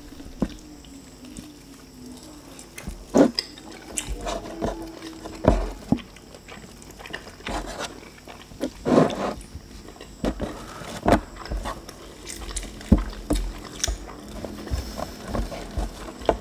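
Close-miked eating sounds of soft lempeng pancake being chewed, with wet mouth smacks and clicks every second or two.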